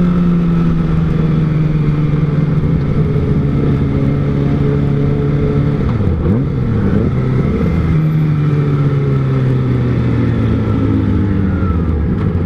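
Kawasaki ZX-25R's 250 cc inline-four, fitted with an R9 Zeta exhaust, running steadily under way with its note slowly sinking. About six seconds in, the note drops sharply and climbs straight back, like a quick throttle change, then holds and sinks slowly again.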